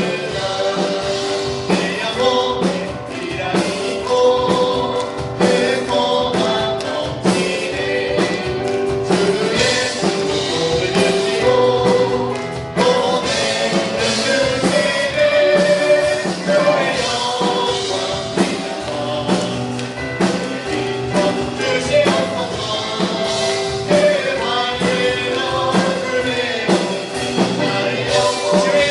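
A praise team singing a gospel worship song together, backed by a band with a steady beat.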